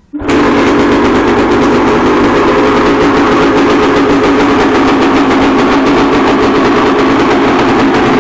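Honda CR250 two-stroke dirt bike engine with an FMF Gnarly exhaust catching on its first start after a rebuild, firing up suddenly about a quarter second in, then running steadily at a fast, even idle on choke.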